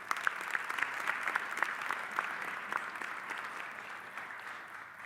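Audience applauding an award recipient, many hands clapping, fading out near the end.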